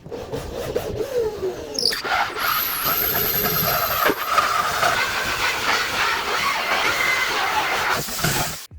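Woodworking power tool working wood: a dense, steady machining noise with a high whine that builds about two seconds in and cuts off abruptly near the end.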